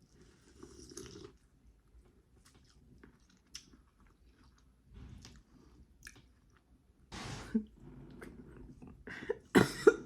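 Close-up chewing and mouth sounds of someone eating a seafood boil: scattered wet clicks and soft bursts, getting louder near the end.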